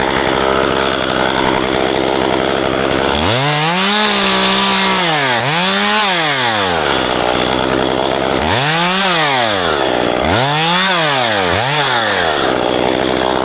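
Chainsaw engine running at high revs, then throttled up and down in about five bursts as it cuts. It stops near the end.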